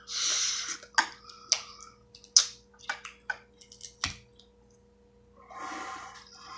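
Sharp cracks and snaps of crab shells being broken by hand, about half a dozen spread over a few seconds, with a short rustle at the start and another near the end.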